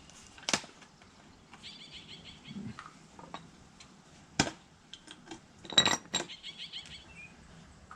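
A plastic motor-oil bottle and a new oil filter being handled: a few sharp knocks and clinks, the loudest near the end, with two short runs of fine rapid clicking.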